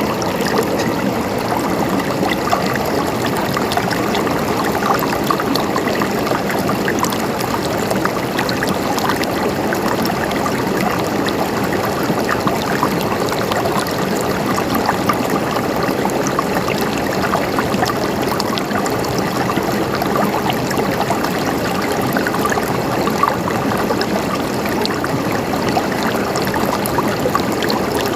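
Running water flowing steadily over stones, a continuous babbling with many small splashes and gurgles.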